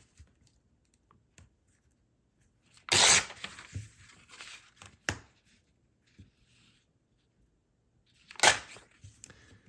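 Parchment paper being torn along a jagged tear ruler: two short, sharp rips, about three seconds in and near the end, with softer paper rustling between.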